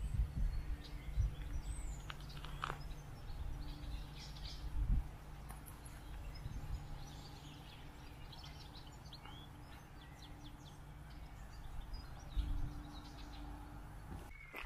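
Songbirds chirping and singing in short, scattered calls over a low, steady rumble.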